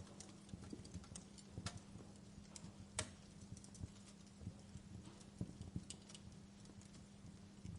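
Wood fire crackling in a fireplace: irregular sharp pops and snaps of varying strength over a faint steady hum, the loudest pop about three seconds in.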